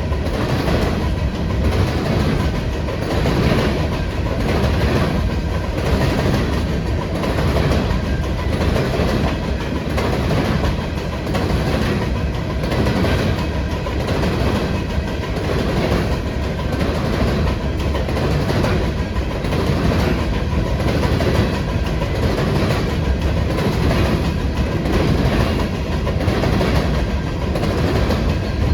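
Train cars rolling past, steel wheels clacking over the rail joints in a steady, repeating clatter with a low rumble underneath.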